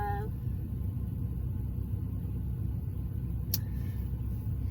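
Steady low rumble with a single sharp click about three and a half seconds in.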